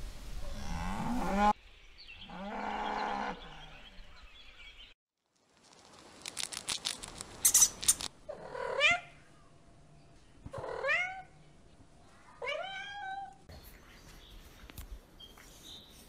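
A cow's moo trails off in the first second or so. After a cut come three squealing calls about two seconds apart, each dipping and then rising in pitch: a guinea pig wheeking.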